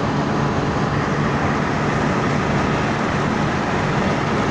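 Steady road noise inside a vehicle travelling at speed on a motorway: an even rumble of tyres and engine with a low hum, unchanging throughout.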